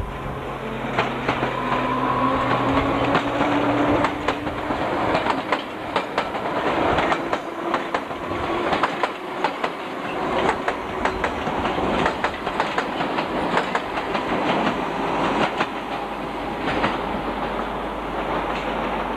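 London Underground D Stock train running past close by, its wheels clattering rapidly over rail joints. A motor whine rises in pitch during the first few seconds.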